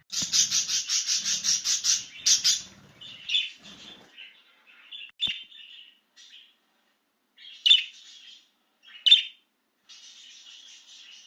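Budgerigar chirping and chattering. It opens with a loud, rapid run of evenly spaced chirps, about seven a second, for roughly two seconds. Softer warbling follows, with two sharp, loud chirps in the second half.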